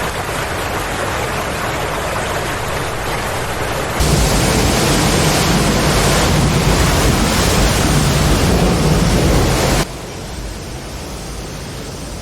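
Steady rushing noise of floodwater and heavy rain, with no distinct events. It jumps louder and deeper about four seconds in, then drops abruptly to a quieter rush just before ten seconds.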